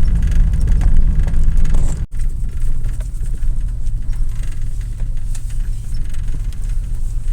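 1999 Chevy pickup's engine running with a steady low rumble. A sudden break about two seconds in, after which the hum continues a little quieter.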